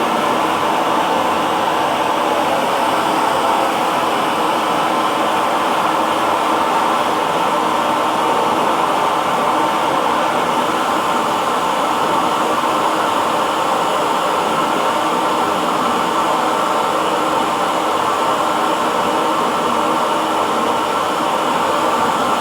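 Hair dryer running steadily on one setting, a continuous airflow and motor noise with no change in pitch or level.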